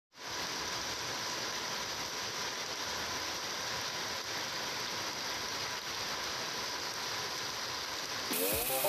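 Heavy tropical rain pouring onto concrete and gravel, a steady hiss. Near the end a pitched sound with several tones comes in over it.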